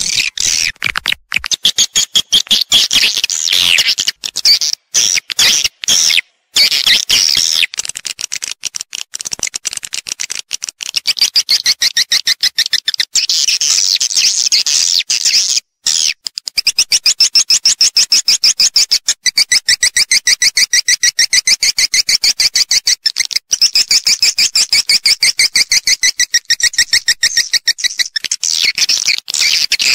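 Edible-nest swiftlets twittering in a lure recording of the kind played in swiftlet houses to call the birds in: loud, high-pitched chattering chirps in fast trains of many pulses a second. About halfway through it settles into a steady, very even pulsing chatter.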